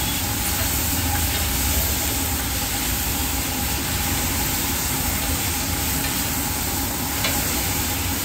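Tadka sizzling and frying in a pan while it is stirred, a steady hiss with a low rumble underneath.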